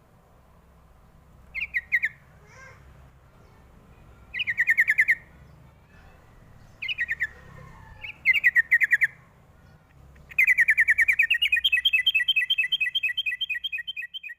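Yellow-vented bulbul (trucuk) song: short bursts of rapid repeated notes, four of them spaced a few seconds apart, then about ten seconds in a long, fast trill that alternates between two pitches.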